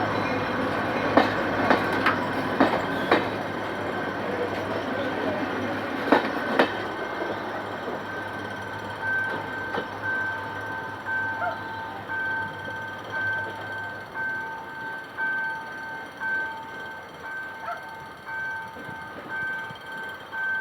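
GM GT-22 CW-2 diesel-electric locomotive hauling a passenger train away: a low engine drone with sharp wheel clicks over rail joints in the first seven seconds, the drone stopping about two-thirds of the way through. A high tone pulses steadily through the second half.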